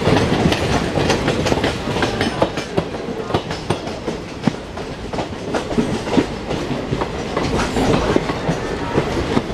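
Passenger express train running, heard from aboard a coach: a steady rumble with many short clicks as the wheels pass over rail joints at irregular intervals.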